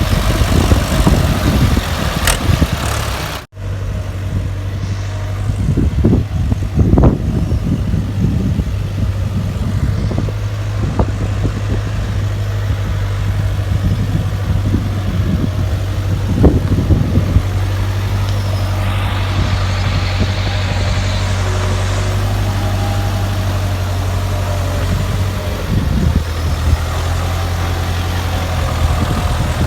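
Ford 6600 tractor's diesel engine running steadily, with a few scattered knocks. The sound cuts out for an instant about three and a half seconds in.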